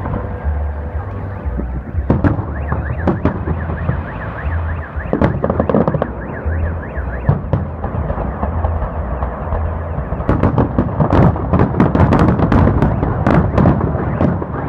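Festive fireworks salute going off: scattered bangs, then a dense run of bangs and crackling from about ten seconds in. A car alarm warbles rapidly up and down through the first half, set off amid the fireworks.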